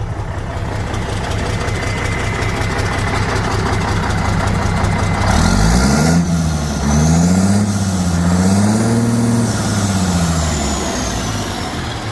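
Mercedes-Benz SK 1831 truck's diesel engine idling, then revved up and down about three times from about five seconds in before settling back to idle near the end. A high whistle falls slowly in pitch as the revs come down.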